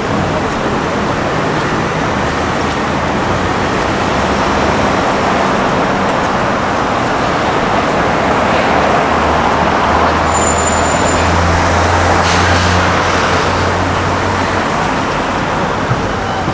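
Street traffic: a steady wash of road noise, with a vehicle's low engine hum swelling about halfway through and easing off again.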